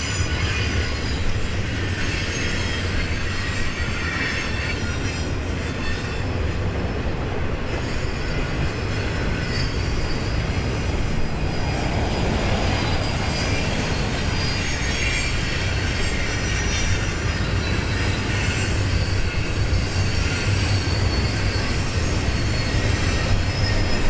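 Double-stack intermodal container train rolling through a curve, a steady rumble of the cars with thin, high wheel squeal from the flanges on the bend.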